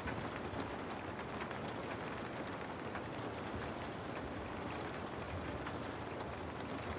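Steady rain falling, with many individual drops ticking against a window among a continuous hiss.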